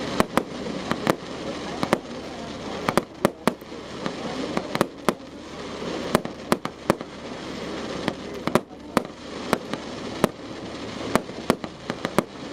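Fireworks going off: a rapid, irregular string of sharp bangs and pops, several a second, over a steady background hiss.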